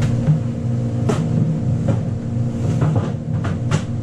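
A steady, loud machine hum from a running motor, with four or five sharp knocks on top, two of them close together near the end.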